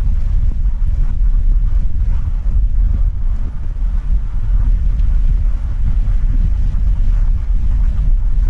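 Steady low rumble of a vehicle driving along the road, with wind noise buffeting the microphone.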